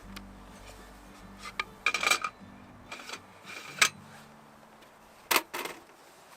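Hard objects being handled, clinking and knocking in short clusters about one and a half seconds in, around three to four seconds, and again near five and a half seconds, like metal camp cookware or utensils being set down.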